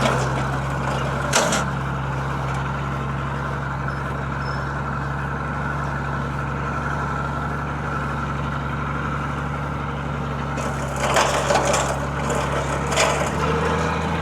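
Old automatic hay bale wagon running: a steady engine drone, with clanking knocks from its bale pickup and stacking mechanism about a second in and again in a cluster near the end.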